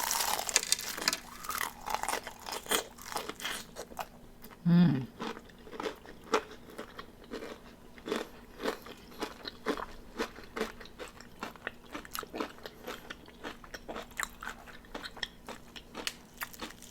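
A person biting into a crispy fried chicken wing with a loud crunch, then chewing it with many sharp, irregular crunches close to the microphone. A short hum comes about five seconds in.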